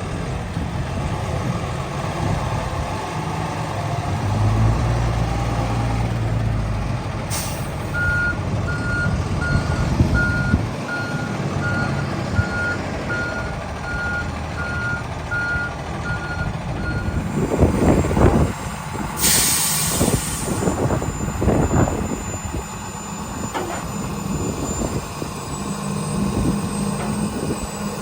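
A 2009 Freightliner Business Class M2 truck's diesel engine running, with a short air-brake hiss. The backup alarm then beeps evenly, about two beeps a second, for roughly nine seconds. A longer air hiss and some clunks follow.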